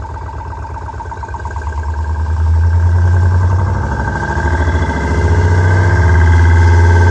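THOR Active Sound electronic exhaust system playing a simulated engine sound through its speaker: a steady idle-like drone that swells louder about two seconds in, eases briefly, then builds again like a rev.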